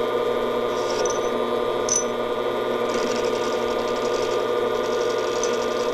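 Metal lathe running steadily, its motor and gears humming, with a faint intermittent hiss and a single light click about two seconds in.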